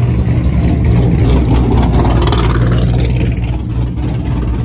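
A car engine running close by, with a deep, steady rumble and a brief swell of higher sound near the middle.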